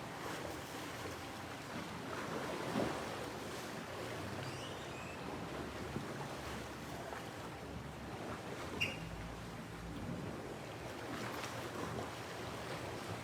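Steady wash of ocean surf with wind on the microphone, and a short high chirp about nine seconds in.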